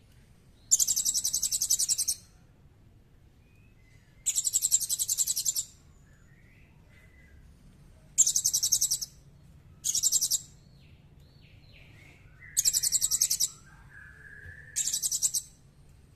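Songbird recording: six bursts of very rapid, high-pitched trilling, each about a second long or less, with fainter gliding calls between them.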